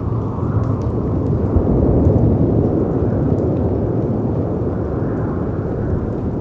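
Layered storm ambience: a low, steady rush of wind and sea waves that swells about two seconds in, with small crackles and pops from a fireplace scattered over it.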